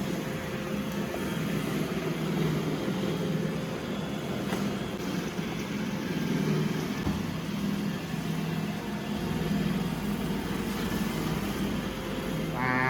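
iRobot Roomba i2 robot vacuum running: a steady motor hum. Near the end a short wavering tone begins.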